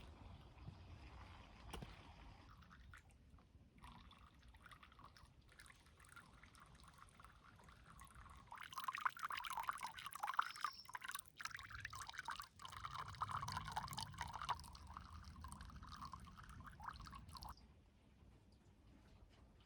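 Water trickling and splashing, louder and busier from about nine seconds in until near the end, where it drops back to a faint background.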